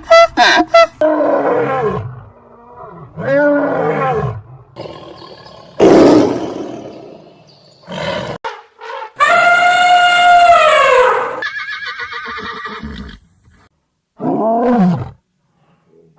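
A string of loud animal calls and roars. There are several pitched cries that arch up and down, a rough roar about six seconds in, and one long, loud high call from about nine to eleven seconds.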